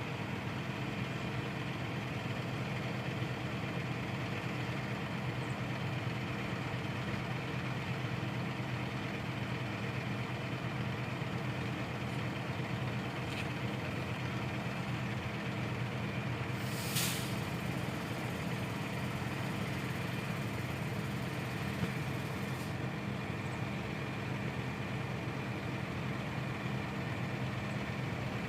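Diesel engine of a boom delivery truck running steadily at idle, with a brief hiss about two-thirds of the way through.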